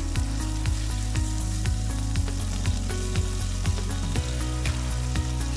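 Chicken breasts sizzling as they fry in olive oil in a frying pan, under background music with a steady beat of about two a second whose notes change about four seconds in.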